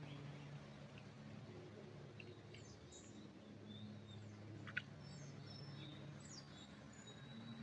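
Faint songbirds chirping in a pine forest, with scattered short high chirps and quick falling notes, over a steady low hum. A single sharp click about five seconds in is the loudest sound.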